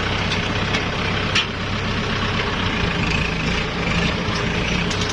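Kubota L5018 tractor's diesel engine running steadily, with one sharp knock about a second and a half in.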